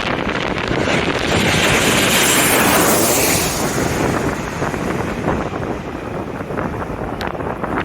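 Jet airliner passing low overhead on landing approach: its hissing whine swells in the first seconds, slides down in pitch as it goes by and fades after about four seconds. Strong wind buffets the microphone with a constant rumble.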